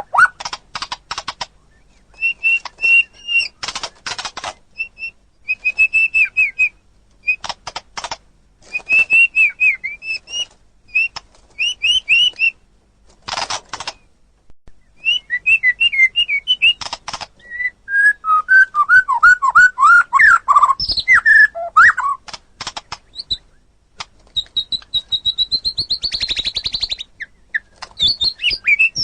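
White-rumped shama (murai batu) singing a long, varied song: clear whistled notes, fast clicking rattles, and quick trills and falling sweeps, broken by short pauses.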